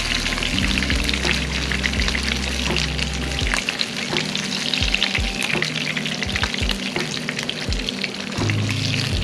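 Breaded crappie fillets sizzling and crackling in hot oil in a small frying pan.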